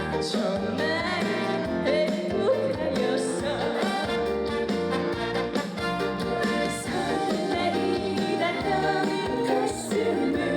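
Live band music with a steady beat and a singer's voice over it.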